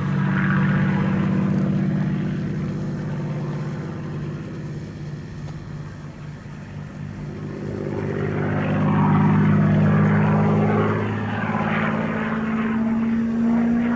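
Supermarine Spitfire Mk VIII's Rolls-Royce Merlin V12 engine and propeller in flight. The note is loud, fades, then swells again to its loudest about nine seconds in, and its pitch slowly rises near the end.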